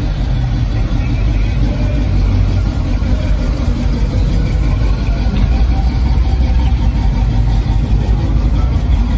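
Car engine idling with a loud, steady low rumble.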